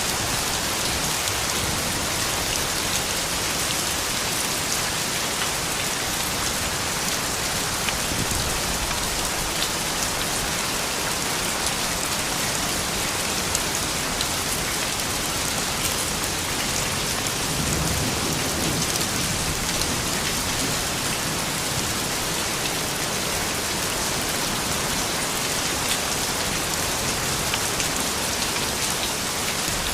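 Steady rain falling, a dense even hiss with individual drops ticking on surfaces. A brief low rumble comes about two-thirds of the way through.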